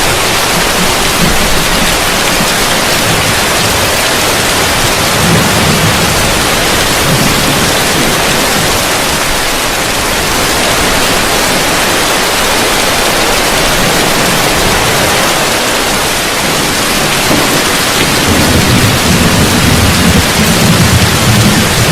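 Heavy rain falling on a roof, a loud, steady hiss, with low rumbles of distant thunder swelling about five seconds in and again near the end.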